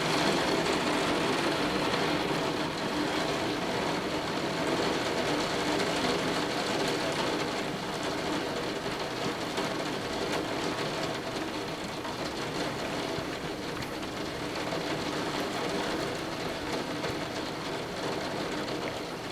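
Torrential rain pouring down in a steady, dense rush, with water overflowing the gutters. It eases slightly toward the end.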